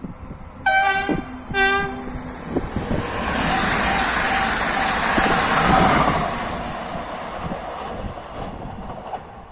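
Electric multiple unit passenger train sounds two short blasts of its horn about a second apart as it approaches. It then rolls past close by with a rising and fading rush of wheels on rail, loudest mid-way.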